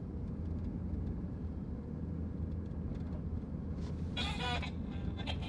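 Steady low rumble of a car running, heard from inside the cabin, with a brief higher-pitched sound about four seconds in.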